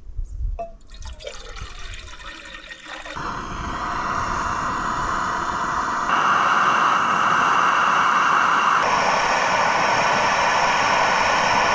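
Water pouring steadily into a pot for coffee, getting louder about three seconds in and again about six seconds in.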